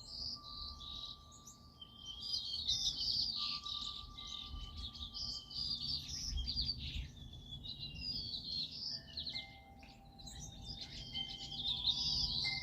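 Many small birds chirping and twittering at once, in dense overlapping bursts that swell about two seconds in and again near the end, with faint steady held tones underneath.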